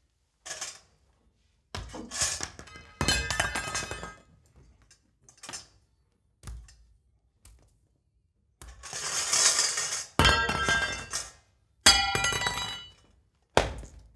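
A series of clattering crashes and clinks from small hard objects hitting a hard floor, several seconds apart, some leaving a glassy ringing tone, with a short rushing noise just before a crash about ten seconds in.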